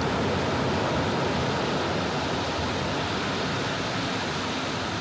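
Soft sea waves washing on a beach: a steady rush of surf, a little louder in the first second or so, then easing slightly.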